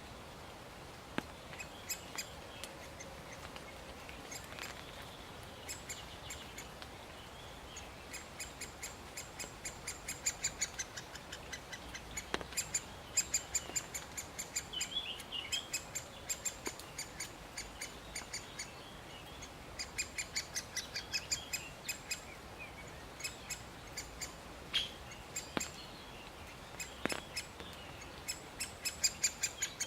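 Great spotted woodpecker calls: long runs of rapid, high repeated notes, several a second, with a few single sharp notes between the runs.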